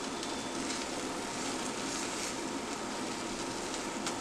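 Egg sizzling steadily in oil in a nonstick frying pan, with a light tap of the spatula against the pan near the end.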